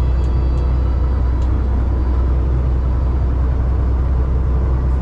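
Steady low drone of a moving truck, engine and road noise heard from inside the cab, with no change in level.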